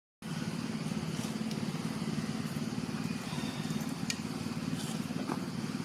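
A motor engine running steadily with a low, even hum, and a few faint clicks over it.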